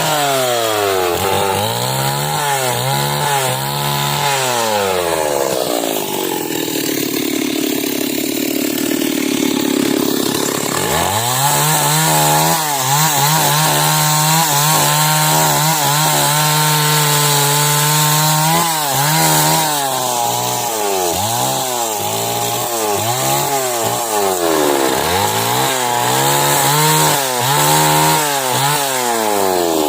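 Chainsaw ripping a log lengthwise into timber, the engine revving up and down over and over as the bar cuts. For about five seconds a fifth of the way in, the clean engine note gives way to a lower, rougher sound.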